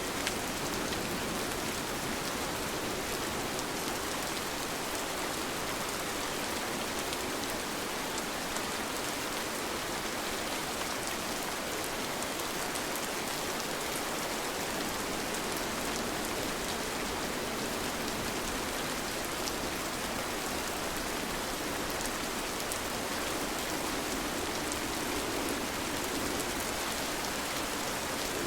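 Steady rain falling, an even hiss of many drops with faint, scattered drip ticks, with no thunder or music.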